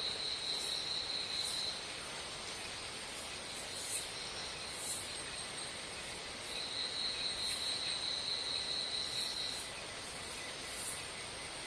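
Insects trilling: a high, even trill that stops a couple of seconds in and starts again after the middle, over a steady, very high whine, with short high chirps about once a second.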